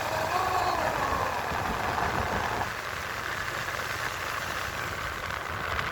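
Motorcycle engine running steadily with a low rumble, a faint trailing voice in the first second or so.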